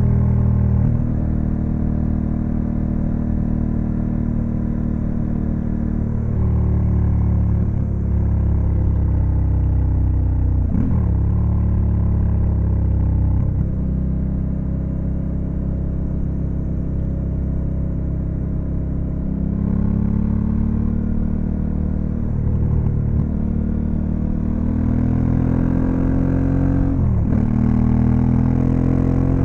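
Honda Africa Twin CRF1100L's 1084 cc parallel-twin engine under way, its pitch rising under throttle and dropping at several gear changes, with a climb in revs near the end.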